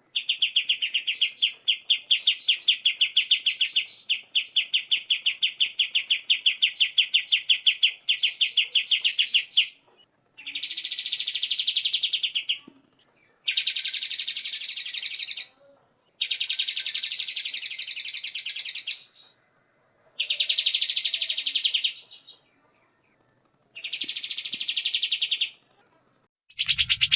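Songbird tutor recording: a bird repeating rapid, pulsed chattering trills. One long trill of about ten seconds is followed by shorter bursts of two to three seconds, separated by brief pauses.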